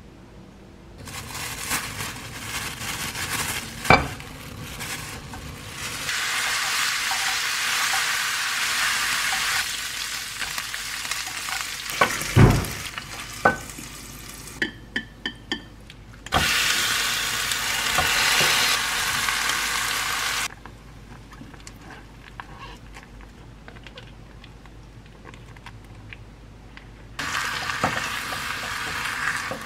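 Thin-sliced beef brisket and then webfoot octopus stir-frying in a pan, sizzling in several stretches with quieter gaps between. A sharp knock comes early on, a louder knock about halfway, and a few light clinks just after it.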